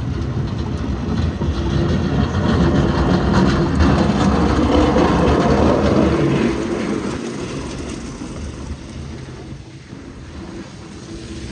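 A large vehicle passing close by: a steady low rumble with a hum that swells to a loud peak about four to six seconds in, then fades away.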